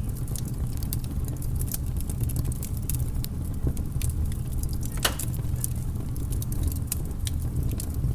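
Fire crackling: irregular sharp pops and snaps, the loudest about five seconds in, over a steady low rumble.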